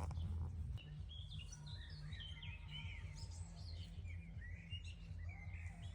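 Songbirds chirping and singing in quick runs of short notes over a low rumble, with a click at the start and another just before the chirping begins.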